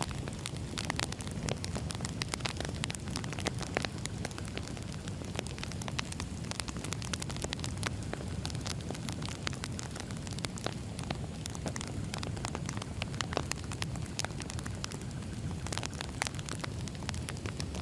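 Wood fire burning steadily, the logs crackling and popping with many irregular sharp snaps over a low, even rumble of the flames.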